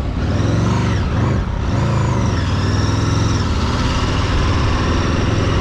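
Motor vehicle engine running steadily while under way, its pitch rising and falling a little in the first couple of seconds.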